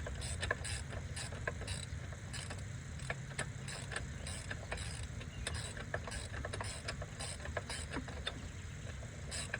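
Hand ratchet wrench clicking as a bolt is worked, a steady run of sharp clicks about two or three a second over a low background hum.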